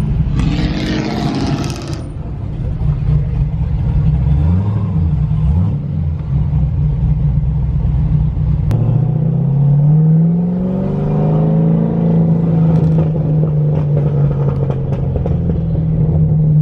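Vehicle engine running with a deep rumble. A short noisy burst comes near the start, the revs wobble briefly a few seconds in, and about nine seconds in the pitch rises as it accelerates, then holds steady.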